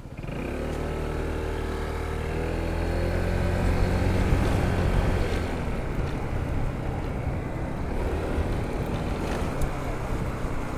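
Honda ADV 160 scooter's single-cylinder engine running under way, its pitch climbing over the first few seconds and then holding. It eases off briefly near the end before picking up again.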